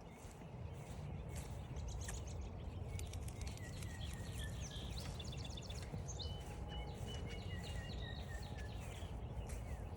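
Steady low wind rumble on the microphone. From a few seconds in until near the end, songbirds sing a quick run of repeated short notes and several short whistled phrases.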